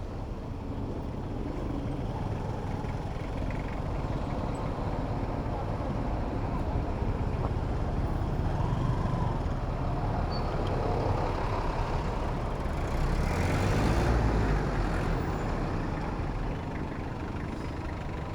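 Road traffic heard from a bicycle in city streets: a steady low rumble of engines and tyres, swelling to a louder rush about two-thirds of the way through as a heavy vehicle passes.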